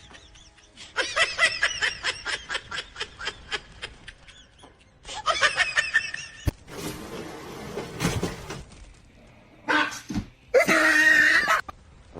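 A person laughing in quick repeated bursts, then a sharp click and a noisy rush, and a loud high cry near the end.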